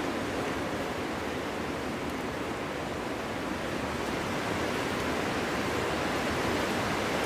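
Winter wind blowing steadily: a dense, even rushing noise without gusts or breaks, building slightly toward the end.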